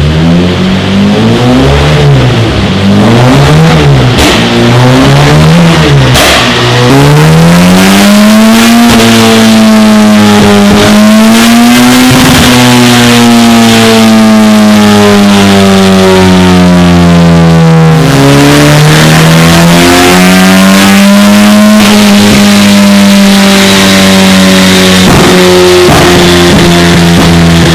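Opel Corsa's C20XE 2.0-litre 16-valve four-cylinder engine revving: three quick blips in the first seven seconds, then held at high revs with slow rises and falls. The revs drop suddenly about eighteen seconds in, then climb again.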